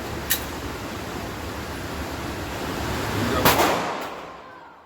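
A single gunshot about three and a half seconds in, ringing briefly afterwards, with a sharp click shortly after the start over a steady background hiss.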